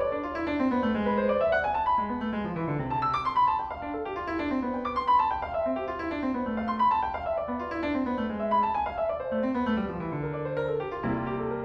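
Solo piano music playing runs of rising and falling scale passages.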